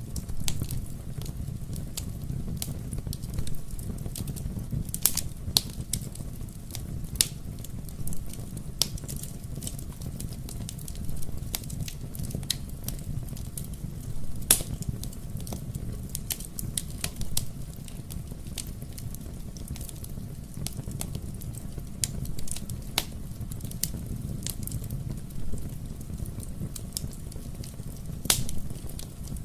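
Wood fire burning in a fireplace: a steady low rumble of flames with irregular sharp pops and crackles, a few louder snaps among them.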